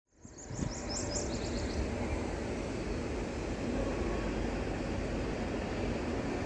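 Steady rumbling noise of a running train, fading in at the start, with a few short high chirps about a second in.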